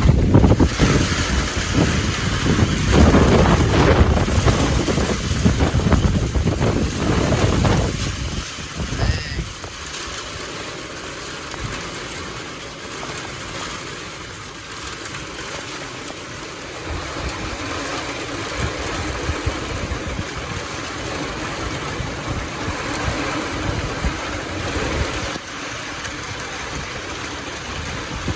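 Severe thunderstorm outdoors: a loud, uneven low rumble of wind buffeting the microphone for about the first eight seconds, then a steadier hiss of heavy rain.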